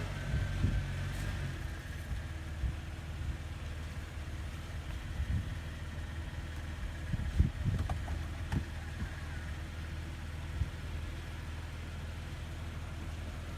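A vehicle engine running steadily at idle, with scattered knocks and thumps over it, the loudest about seven and a half seconds in.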